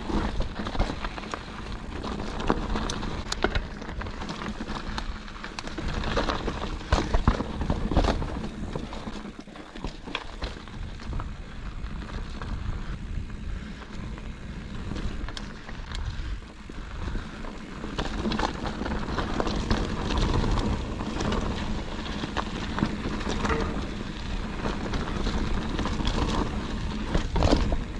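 Mountain bike riding down a rocky dirt trail: tyres rolling and crunching over rock and dirt, with frequent knocks and rattles from the bike as it hits bumps.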